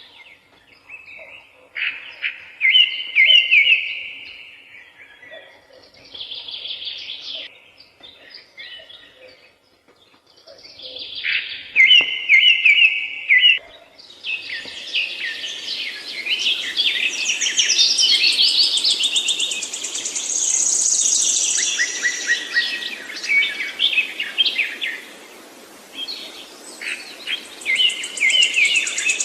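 Songbirds singing, one bird repeating the same short chirped phrase several times. About halfway through, more birds join in a denser, overlapping chorus over a steady background hiss.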